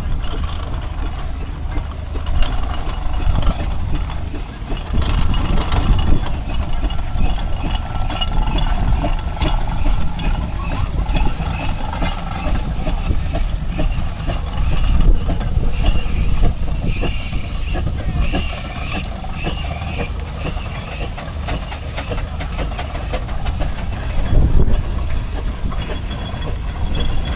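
Steam engines running round a show arena: a steady low rumble with some hiss, with voices in the background.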